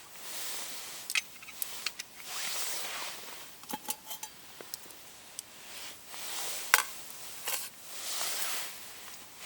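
Scattered clinks and taps of camp cookware and utensils being handled, one with a brief metallic ring, between soft stretches of rustling.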